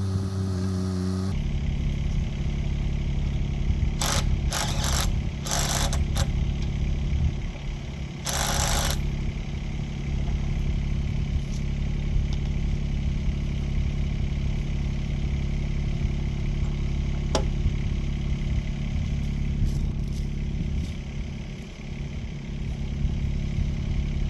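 Kymron XH20D mini-excavator engine running steadily, with an abrupt change in its tone about a second in. Short sharp bursts of noise around four to six seconds in and again near nine seconds.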